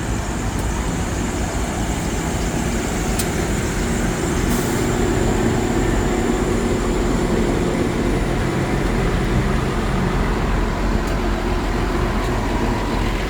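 Tractor engines running steadily as they pass along the road, a little louder from about four seconds in.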